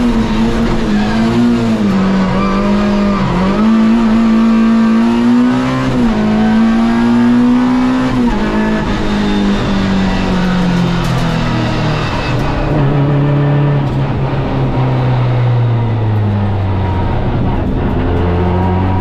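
Peugeot 206 Group A rally car's four-cylinder engine heard from inside the cabin, running hard at high revs, its note rising and dipping several times over the first eight seconds. About twelve seconds in, the revs fall steadily as the car slows, and it runs on at a low, even engine note.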